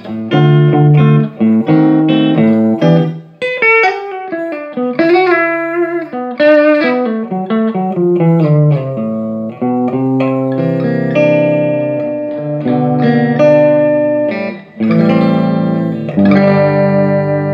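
Electric guitar played through a Laney Iron Heart IRT30 valve amp, mixing held chords and single-note lines with a few bends. This is a sound test after repairing the amp's signal cutting out.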